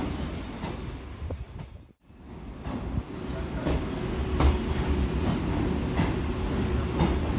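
Electric suburban local train running along the track: a steady low rumble with the wheels clicking over rail joints roughly once a second. The sound drops out briefly about two seconds in, then comes back with a steady hum under the rumble.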